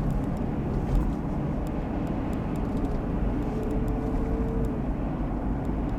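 Steady low rumble of road and wind noise inside a moving car, with a faint thin tone for about a second midway.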